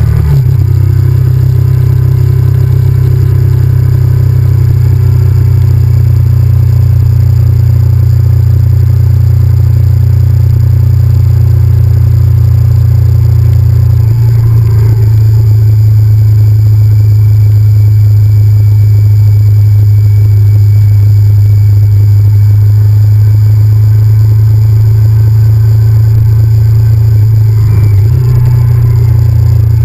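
Honda VTR1000F's 90-degree V-twin engine running steadily under way on the motorcycle, a deep continuous drone. The engine note steps up about halfway through and wavers briefly near the end, as with a gear change or throttle change.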